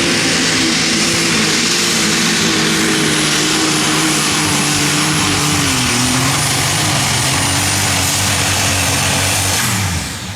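Unlimited super stock pulling tractor's turbocharged diesel engine running flat out under load during a pull, with a steady high-pitched whine over the engine. The sound falls away near the end as the pull finishes.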